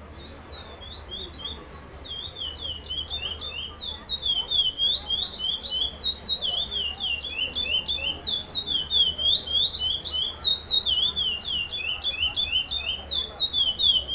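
Male chestnut-bellied seed finch (curió) singing a fast, unbroken string of short down-slurred whistled notes, several a second, growing louder over the first few seconds.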